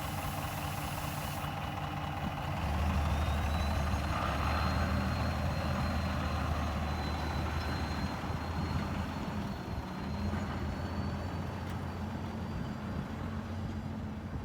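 Heavy diesel engine of earthmoving machinery running steadily with a thin high whine. It picks up and gets louder about three seconds in, then eases back slightly after about nine seconds.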